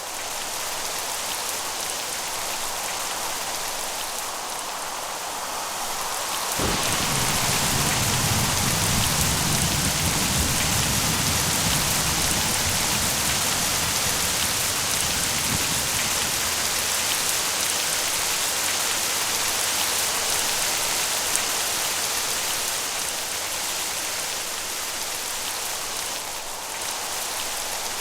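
Steady rain hiss. About a quarter of the way in, a low rumble of rolling thunder comes in, lasts several seconds and fades away.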